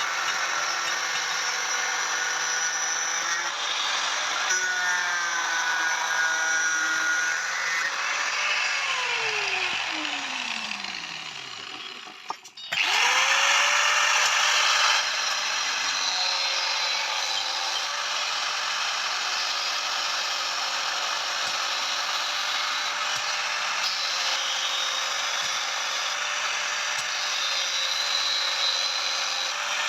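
Handheld electric power tool running with a steady whine and hiss. About eight seconds in it is switched off and winds down with a falling pitch, then about thirteen seconds in it is switched on again, spins up quickly and runs steadily.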